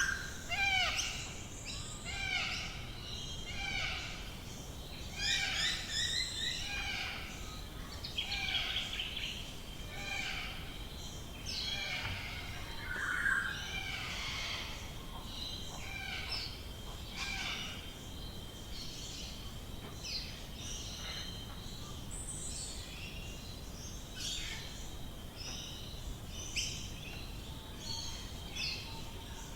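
Morning chorus of Australian bush birds: many short chirps and whistles overlapping, busiest in the first half, with a thin steady high tone through the middle stretch.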